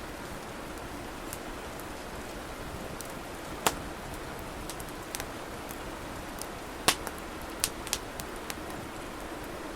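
Wood fire burning with a steady soft rush and sharp crackling pops, the two loudest about three and a half and seven seconds in, followed by a quick cluster of smaller pops.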